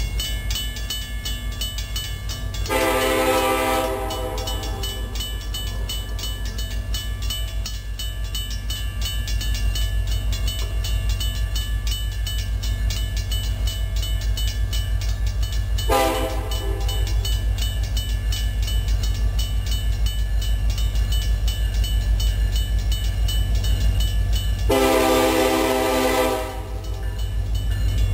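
Approaching Union Pacific diesel locomotive: a steady low rumble, with three blasts of its chord air horn. There is a long blast about three seconds in, a short one midway, and a longer one near the end.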